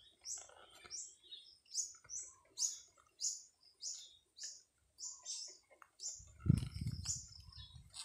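A small bird chirping over and over, short high falling chirps about two a second. About six seconds in, a louder low rustling bump from brush or handling.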